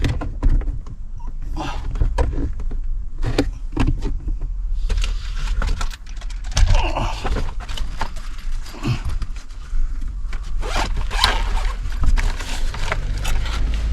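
Scattered clicks, knocks and rustling of hands working on a car's centre console trim, over a steady low hum.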